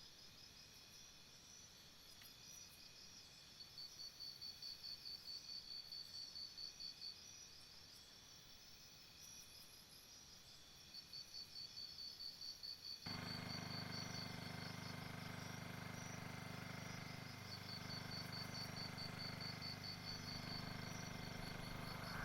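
Faint chirping of insects, high-pitched pulses of about five a second coming in trains of a few seconds with short breaks. About halfway through a steady low hum comes in suddenly under the chirping.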